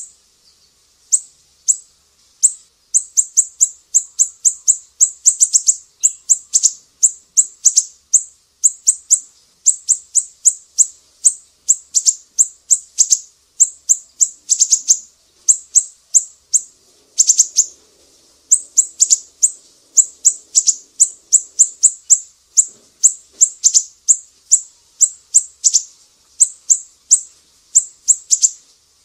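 Caged songbird chirps from a bird-training (masteran) recording that mixes cililin, lovebird and siri-siri calls: a rapid, steady string of short, sharp, high-pitched notes, several a second, with brief pauses.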